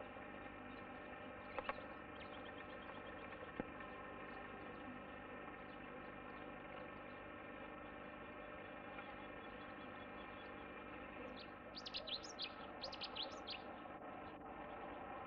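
A bird sings a brief run of quick, high, falling chirps about three-quarters of the way through, over a faint, steady hum. A few sharp clicks come in the first few seconds.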